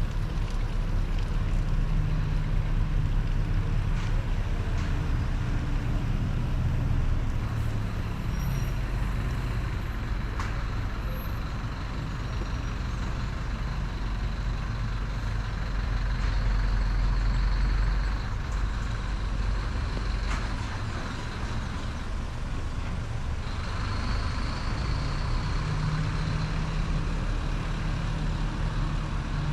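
Road traffic: the low rumble of large vehicle engines running and passing, swelling loudest about two-thirds of the way through.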